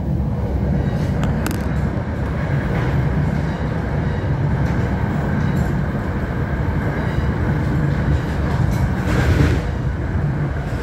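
Moving NJ Transit commuter train heard from inside the passenger car: a steady rumble of wheels on the rails, with a few light clicks and a brief louder rattle about nine seconds in.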